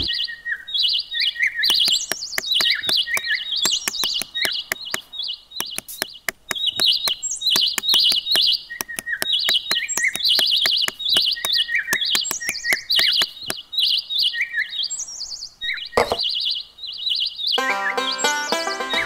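Birds chirping: short high chirps repeated over and over, with many short clicks among them. Music comes in near the end.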